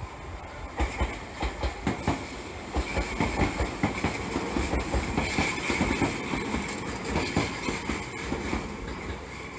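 Tobu 500 series Revaty limited express electric train running past, its wheels clicking rhythmically over the rail joints. A steady high-pitched whine rises above the clatter from about three to seven seconds in.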